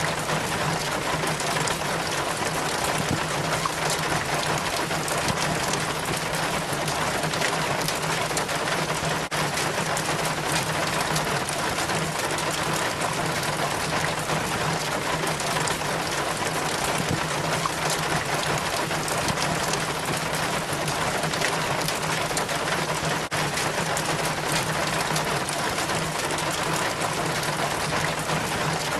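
Rainwater trickling and splashing down a rain chain from the gutter, a steady, even patter and rush of water.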